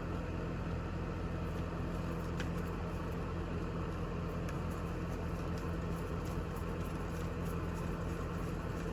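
A steady low hum, with one faint click about two and a half seconds in.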